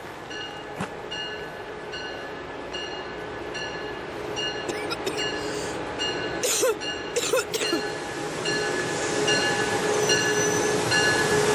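A warning bell rings steadily, about one and a half strokes a second, as a train approaches the platform. The train's noise grows louder through the second half, with two short sharp bursts just past the middle.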